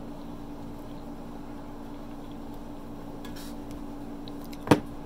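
A person chewing a mouthful of pasta with the mouth closed, over a steady low hum; a single sharp click comes near the end.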